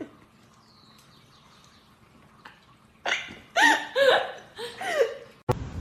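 An animal's vocal calls: four or five short cries in quick succession, each rising and falling in pitch, coming in about three seconds in after a near-quiet stretch.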